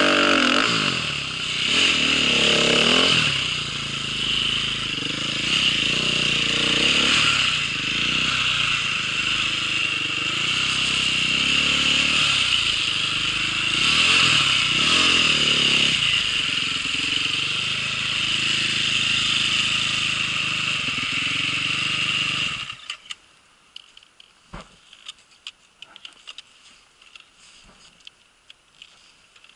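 Motorcycle engine running under riding, its revs rising and falling repeatedly, for about twenty-odd seconds. It then cuts off suddenly, leaving only faint scattered clicks and ticks.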